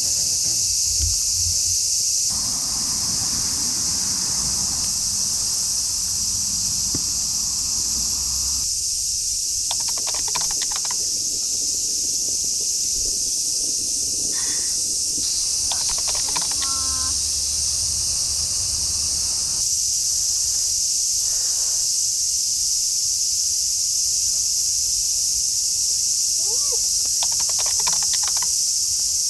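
Loud, steady high-pitched chorus of summer insects, with a few brief clicks and clatters on top.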